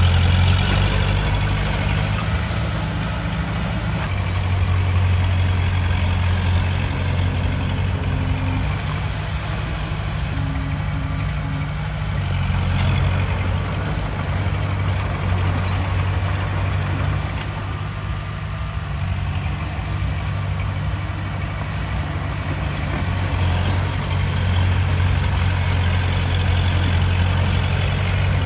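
Heavy diesel engine of earthmoving machinery running under load, its low drone swelling and easing every few seconds as the work goes on.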